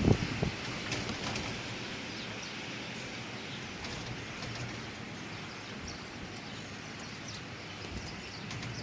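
Steady hiss of falling rain, with a few thuds in the first half-second and faint short high chirps here and there.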